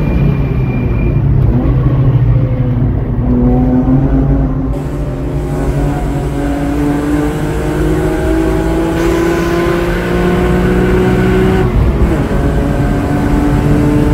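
Track-prepped BMW M3 E46's straight-six engine under hard acceleration, heard from inside the cabin. The engine note climbs slowly through one long gear, drops at an upshift near the end, then climbs again, over steady tyre and wind noise.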